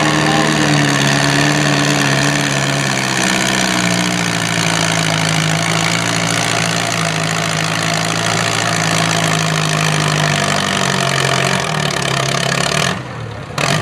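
Antique farm tractor engine running hard at steady throttle, its pitch easing down slightly and wavering later on. About a second before the end the sound drops away abruptly.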